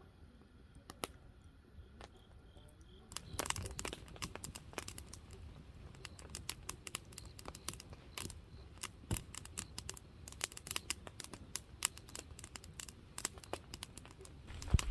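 Dense, irregular crackling and clicking that starts about three seconds in, after a few isolated clicks.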